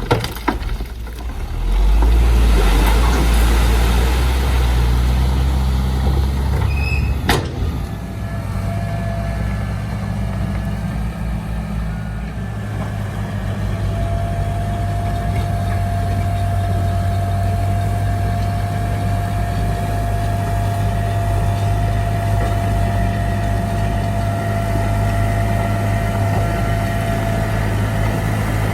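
Heavy diesel engine of earthmoving machinery running, with a deep rumble for the first several seconds and a sharp click about seven seconds in. After that it runs steadily with a thin steady whine over it.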